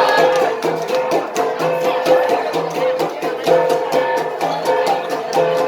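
An ensemble of gangsa, flat bronze Igorot gongs, beaten in a fast, steady interlocking rhythm for the pattong dance. Ringing gong tones repeat in a cycling pattern under many quick strikes.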